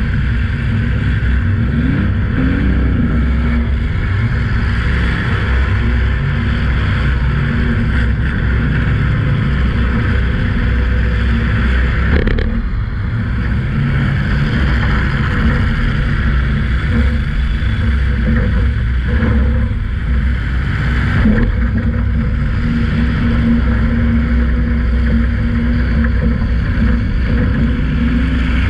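Demolition derby car's engine running and revving hard, heard from inside the cab, with a few short knocks about 12 and 21 seconds in.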